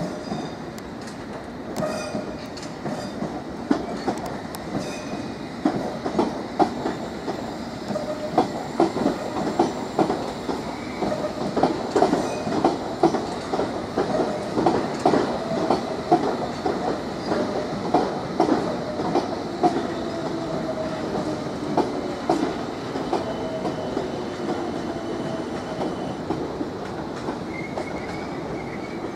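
Electric train running past on the tracks beside the platform, its wheels clicking rhythmically over rail joints, the clicks loudest through the middle. A faint steady whine underneath slides a little lower in pitch in the second half.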